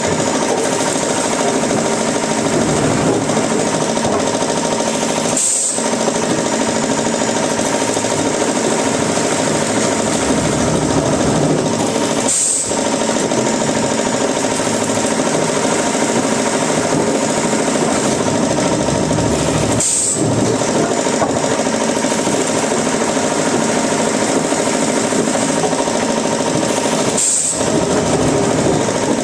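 Woodworking machinery running steadily, a dense mechanical noise with a few steady tones, broken by very short gaps about every seven seconds.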